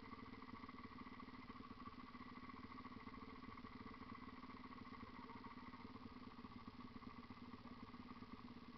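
Dirt-bike engine idling steadily at an even pitch, without revving.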